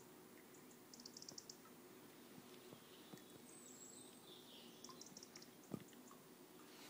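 Near silence with faint bird chirps: short rapid trills about a second in and again around five seconds in, and one brief soft thump late on.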